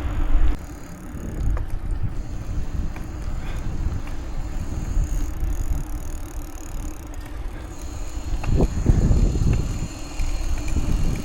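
Wind buffeting the microphone while riding a bicycle, a steady low rumble that swells briefly about nine seconds in.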